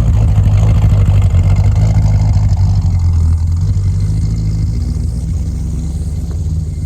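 A vehicle engine running steadily, loud and low-pitched.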